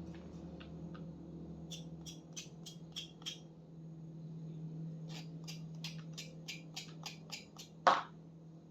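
Food storage containers being handled: two runs of light, quick clicks and taps, about four a second, then one louder knock near the end, over a steady low hum.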